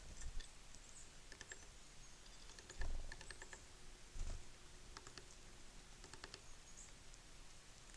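Small birds at a seed feeder: scattered light clicks and taps of beaks and feet on the feeder, with two dull thumps about three and four seconds in and a few faint high chirps.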